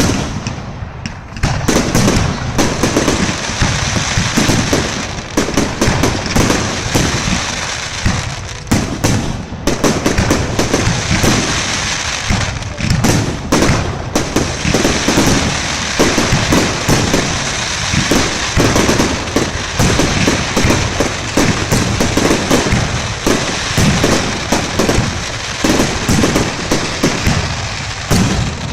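Fireworks display: a dense, continuous barrage of bangs and crackling bursts, one on top of another.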